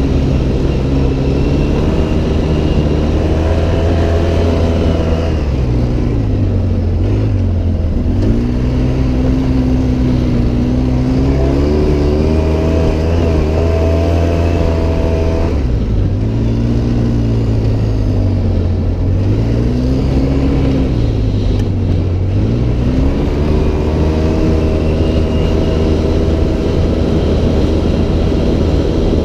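Off-road vehicle's engine running hard while driving, its pitch climbing and dropping repeatedly as the throttle opens and closes and the gears change.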